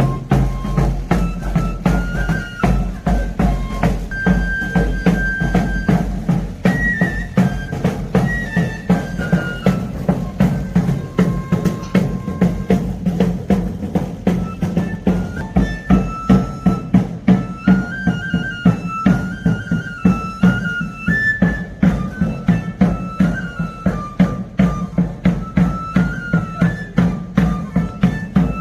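Traditional pipe and tabor played together: a high, piping folk melody over a steady, evenly repeated drumbeat.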